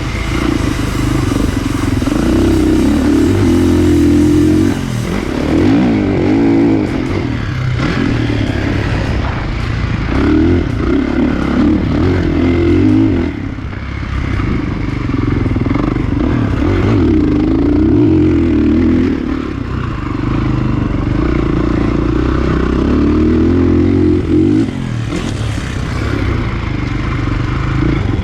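Kawasaki KX450 single-cylinder four-stroke motocross engine being ridden hard, its pitch rising and falling as the throttle is opened and rolled off, with a brief drop in revs every few seconds.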